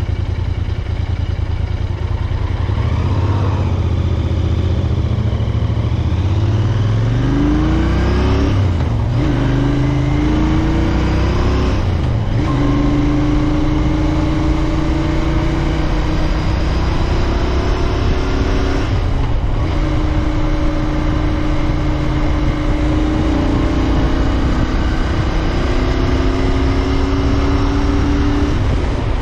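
Royal Enfield Interceptor 650's parallel-twin engine running low at first, then pulling hard and revving up through the gears, with three short breaks in the sound as it shifts up. It then settles into steady cruising, the pitch drifting only slightly.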